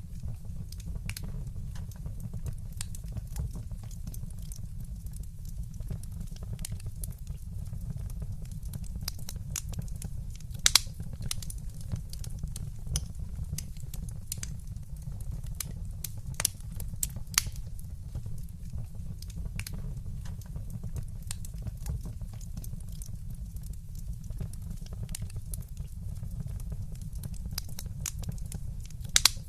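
Wood fire in a fireplace crackling, with a steady low rumble underneath. Many small irregular snaps, and a few louder pops scattered through, two of them close together near the end.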